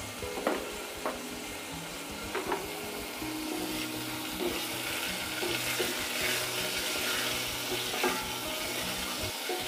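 Chicken pieces frying in oil with chopped garlic in a stainless steel saucepan, sizzling steadily while a spatula stirs them, with a few short scrapes against the pan. The sizzle gets a little louder about three seconds in.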